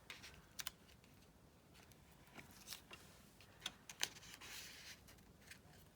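Faint handling sounds of paper and craft materials: scattered small clicks and taps, with a short rustle about four seconds in.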